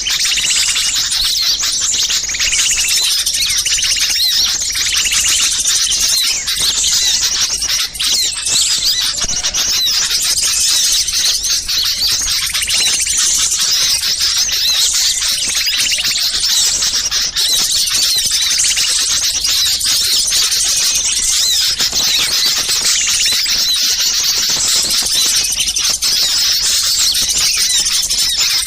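A dense, unbroken chorus of many small songbirds chirping and calling over one another at high pitch: an agitated ('ribut') small-bird lure recording of the kind used to draw wild birds in.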